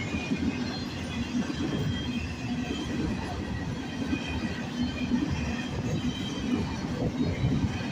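Empty intermodal well cars of a freight train rolling past: a steady rumble of wheels on rail, with faint, intermittent high wheel squeal.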